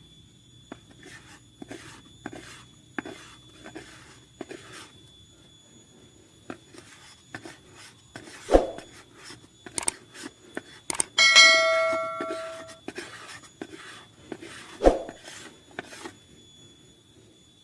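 A run of short, sharp scraping or tapping strokes at an uneven pace, with two heavier knocks. About eleven seconds in, a struck metal object rings for a second or so and fades.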